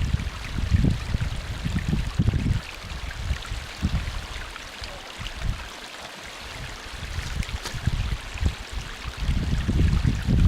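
A small stream of acid mine water running over its bed, with wind gusting on the microphone. The gusts are strongest at the start and again near the end, and ease off in the middle.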